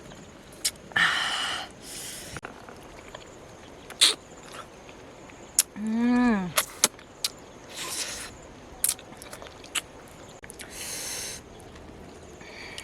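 Close-up eating sounds: sharp clicks and short noisy bursts of chewing, with one short hummed "mm" about six seconds in.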